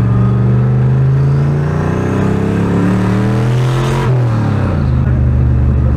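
Turbocharged truck engine under hard acceleration. Its pitch climbs for about four seconds, drops sharply at a gear change with a brief rush of noise, then climbs again.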